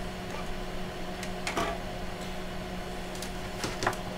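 Steady hum of running bench electronics, holding several fixed tones, with a few light clicks and handling noises about a third of the way in and again near the end.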